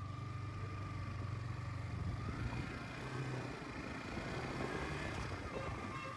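Motorcycle engine running steadily while riding, with road noise and a thin, steady whine above the engine hum.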